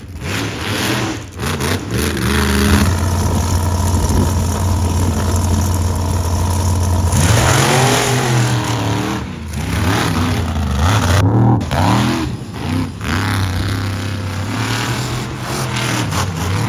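Monster truck engine held at a steady high rev for about four seconds, then revved up and down over and over.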